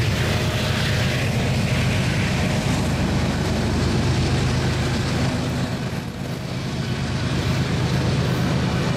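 Empty autorack freight cars rolling past at speed: a steady rumble and clatter of steel wheels on the rails. The sound briefly dips about six seconds in.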